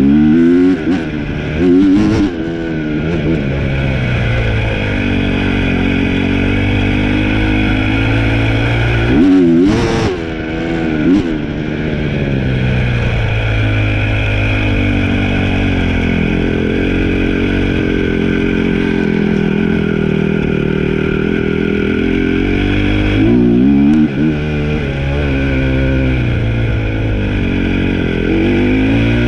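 Dirt bike engine running under way, revving up in bursts about two seconds in, around ten seconds, near twenty-four seconds and again at the end, holding steady revs between.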